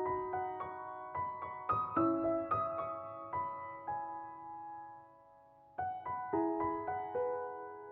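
Gentle background piano music: notes struck and left to ring, dying away to a brief lull a little after the middle before the playing picks up again.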